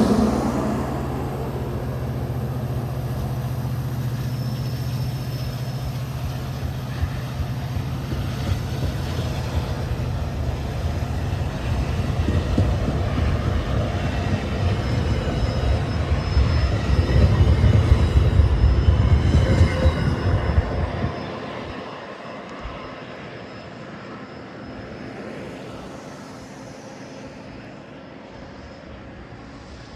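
Diesel-hauled commuter train rumbling along the tracks, the rumble building for about twenty seconds and then dropping away suddenly, leaving a steady wind hiss.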